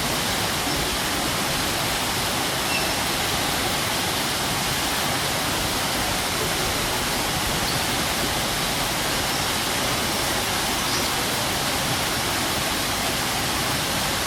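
Strong waterfall: a steady, unbroken rush of falling water.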